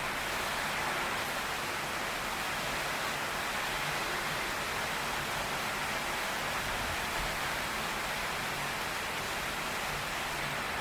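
Heavy rain pouring steadily on a tin roof, an even, unbroken hiss.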